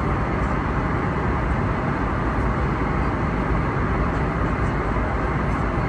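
Steady airliner cabin noise aboard an Airbus A321neo: an even, unbroken rush of air and engine sound, heaviest in the low range.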